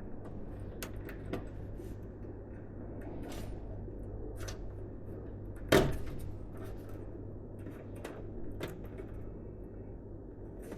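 Light clicks and taps of computer parts being handled during a PC assembly, with one sharper, louder knock about halfway through, over a steady low hum.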